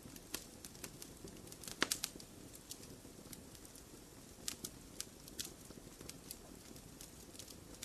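Wood fire crackling in a fireplace: irregular sharp pops and snaps over a low steady hiss of burning, with a cluster of the loudest pops just under two seconds in.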